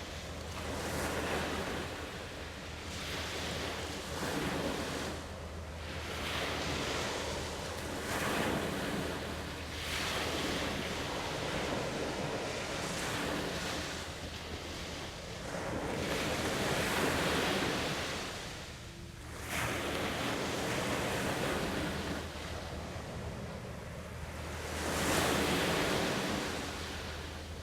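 Waves washing in, swelling and fading every couple of seconds, with wind on the microphone over a steady low hum.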